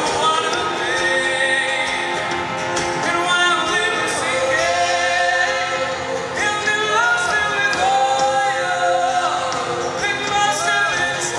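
Live band music with voices singing, holding long notes that slide up and down between pitches.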